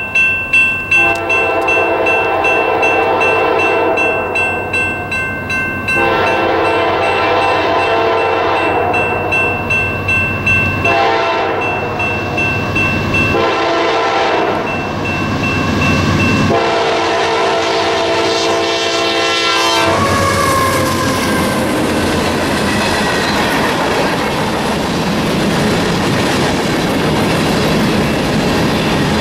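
A GE AC44CW diesel locomotive sounds its horn in a series of long blasts as it approaches the crossing, over the rapid dinging of a damaged NEG electronic crossing bell. About twenty seconds in the horn stops and the train rolls through, its covered hopper cars clattering over the rails.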